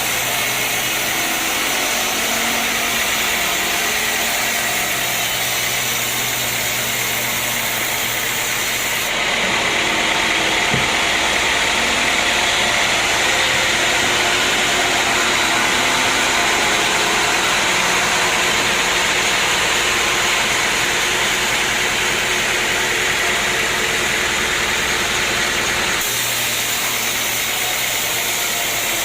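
Sawmill machinery running steadily, a loud continuous mechanical noise. About nine seconds in it changes abruptly to a harsher, hissier sound, then switches back near the end.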